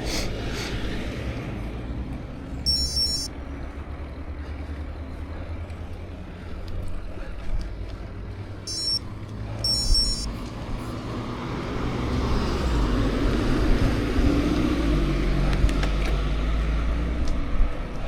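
Wind rumbling on the microphone and tyre noise from a bicycle riding on the road. It grows louder about two-thirds of the way through, as a motor vehicle passes.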